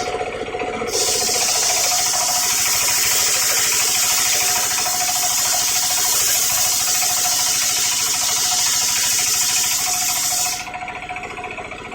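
Homemade engine-driven circular sawmill running, its blade cutting through coconut wood with a loud high hiss from about a second in until near the end. After that the saw runs on without load.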